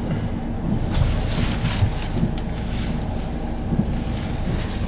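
Inside a Mercedes E-Class ambulance cab in heavy rain: a steady low engine rumble with a hiss of rain that swells and fades every second or so.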